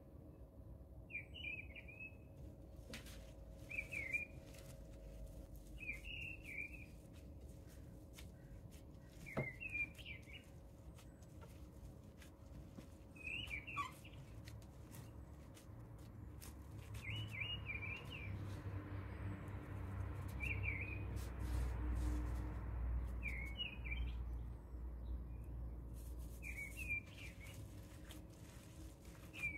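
A small bird chirping a short repeated call about every two seconds, over faint scattered clicks and a low rumble that swells in the second half.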